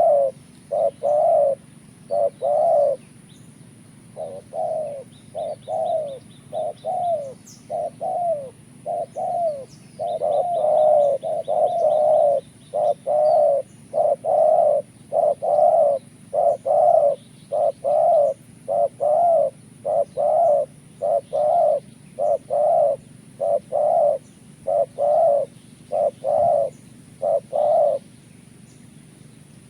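Spotted doves (tekukur) cooing in a long run of short repeated notes, stopping shortly before the end. Twice a faint, fast, high ticking trill sounds over the cooing.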